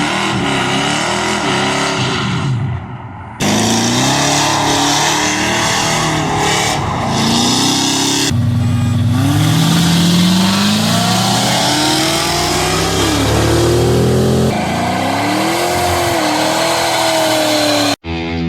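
Pickup truck engines revving in a run of short edited clips, the pitch rising and falling with each blip of the throttle, with several abrupt cuts between clips.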